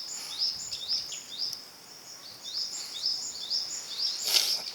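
Outdoor ambience with a high chirping call repeated about two to three times a second. A short rustling noise comes near the end.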